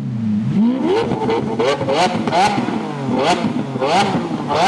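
Supercar engine revving hard, its pitch climbing and dropping again and again as it runs up through the gears, with short sharp cracks between.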